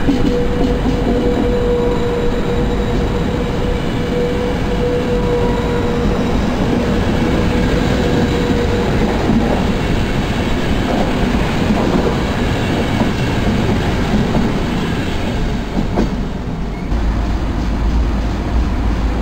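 Thello passenger coaches rolling past at speed: a loud, steady rumble of wheels on rail with a few sharp knocks. A steady whine fades out about six seconds in. Near the end, after a cut, the rumble of another passenger train's coaches moving along the platform.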